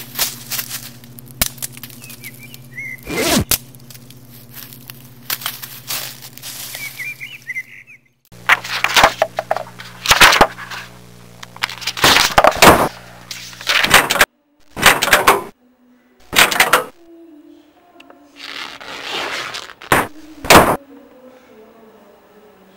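Loud thuds and sharp cracks of bodies and bare or socked feet hitting a wooden floor, many in quick succession, over a steady low hum. The sound cuts off abruptly several times, with brief silences between.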